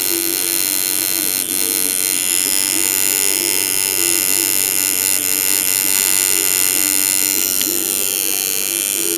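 Coil tattoo machine buzzing steadily as it drives a nine-round shader needle, its pitch wavering slightly.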